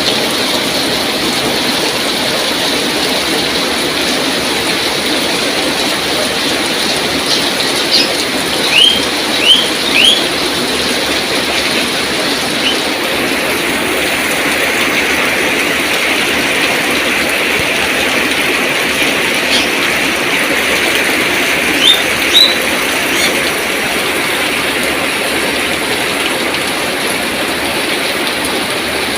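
Heavy rain falling steadily with a dense, even hiss. A few short high chirps cut through it, three together about eight to ten seconds in and two more a little past twenty seconds.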